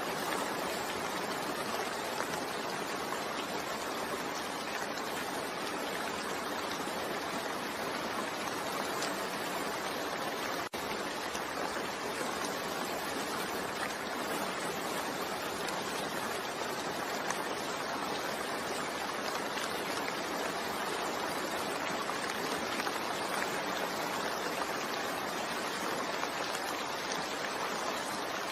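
Steady rain falling in an even hiss, broken by a split-second dropout about ten seconds in.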